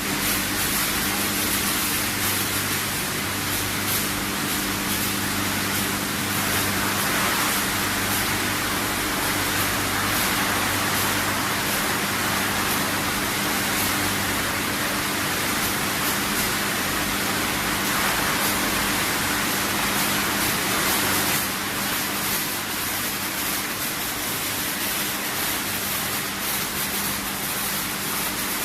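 Machinery of a PET bottle washing and recycling line running: a steady rushing noise over a constant motor hum, easing slightly about 21 seconds in.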